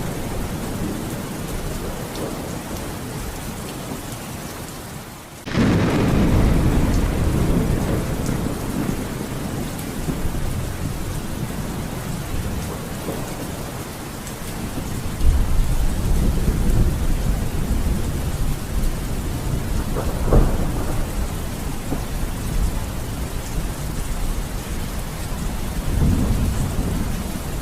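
Steady rain during a thunderstorm, with thunder rolling through it. A sudden loud thunderclap breaks in about five seconds in and rumbles on, with another long rumble building later, a short sharp crack a little after that, and a further rumble near the end.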